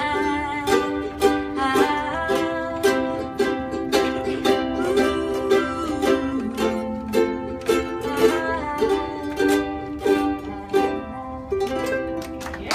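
Ukuleles strummed together in a steady rhythm, playing a gentle song.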